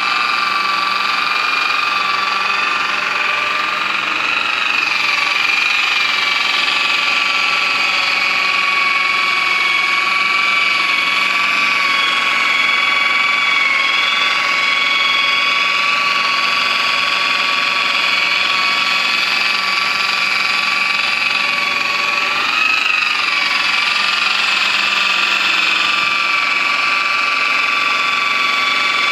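Electric power polisher running with a steady high whine, its pitch wavering briefly twice as the load on it changes.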